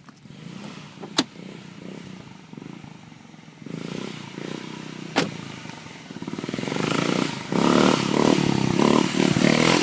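Small off-road vehicle engine running and revving, growing much louder over the last third. Two sharp clicks stand out, one about a second in and another about five seconds in.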